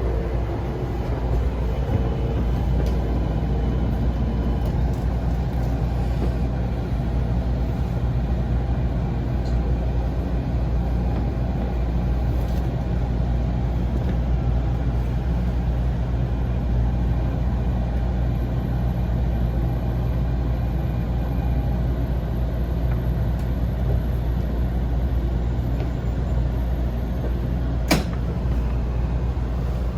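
Running noise inside a Shinkansen train car: a steady low rumble and hum, with one sharp click near the end.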